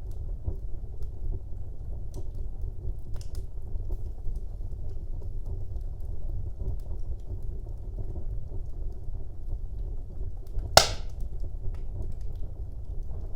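Wood fire burning in a fireplace: a steady low rumble of flames with small scattered crackles, and one sharp loud pop about eleven seconds in.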